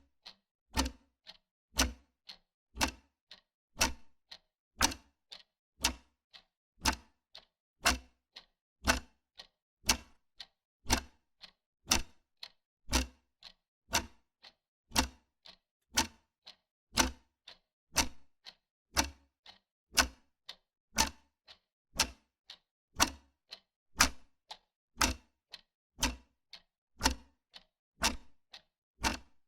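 Wall clock ticking steadily, about two ticks a second, a loud tick alternating with a softer tock.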